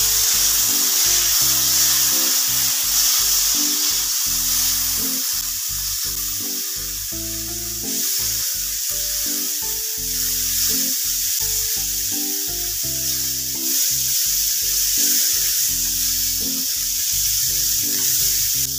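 Boiled chickpeas sizzling steadily as they fry in hot oil and ghee with spices in a stainless-steel pan, stirred with a spatula.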